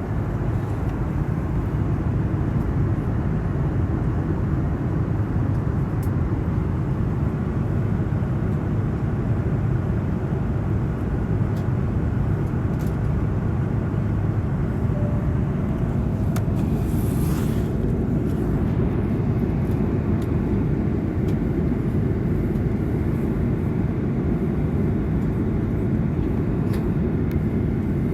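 Steady low cabin roar inside an Airbus A330-200 with Rolls-Royce Trent 700 engines, heard from a window seat, with a brief hiss about seventeen seconds in.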